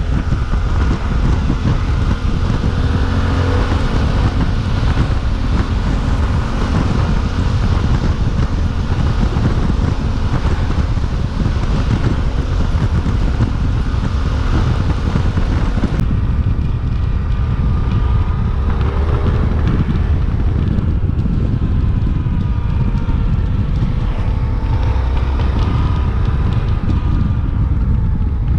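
Suzuki V-Strom 800DE's parallel-twin engine running under way, with heavy wind buffeting on the microphone. The engine holds a steady pitch at first; about halfway through the wind hiss eases and the revs rise and fall repeatedly.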